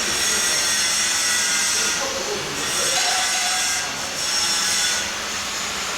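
A steady, loud hiss that swells and eases a couple of times, with faint voices underneath.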